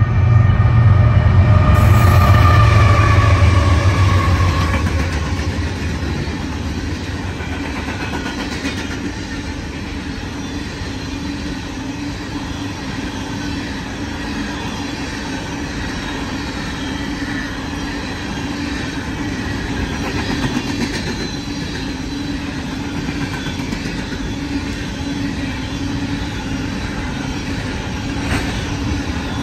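Union Pacific diesel locomotives passing at the head of an empty coal train, loudest in the first few seconds, then fading into the steady rumble and clatter of empty coal hopper cars rolling by on the rails.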